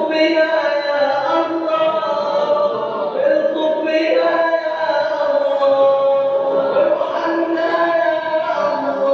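A man's voice chanting Islamic prayer recitation in a slow, melodic style, holding long notes with gentle pitch bends.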